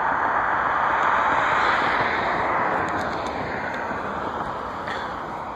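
Jet airliner passing, a broad rushing roar loudest about a second or two in and then slowly fading.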